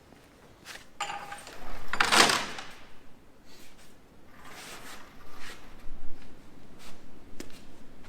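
A series of knocks and clunks, with a longer scraping rush about two seconds in that is the loudest sound, and a smaller one near five seconds.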